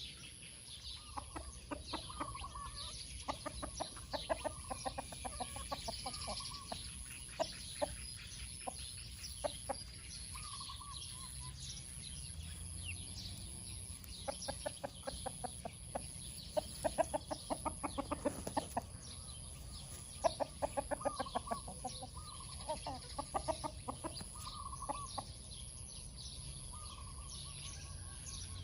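Two Light Sussex hens clucking together in long runs of rapid clucks, heard in several bursts with pauses between, loudest around the middle and later part.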